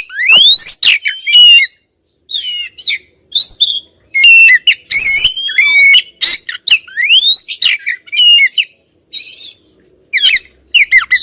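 Oriental magpie-robin (kacer) singing: loud bursts of varied whistled phrases, with rising sweeps and quick chirps, broken by short pauses.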